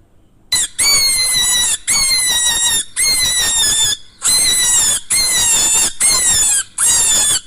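An animal's high-pitched squealing calls, about seven in a row, each lasting about a second and falling slightly in pitch, with short breaks between.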